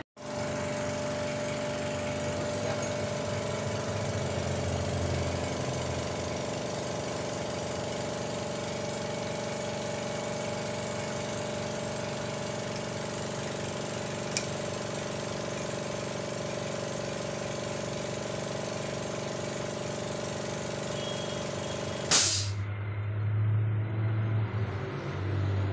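A machine running steadily, a mechanical hum with several constant tones, broken near the end by one sharp click.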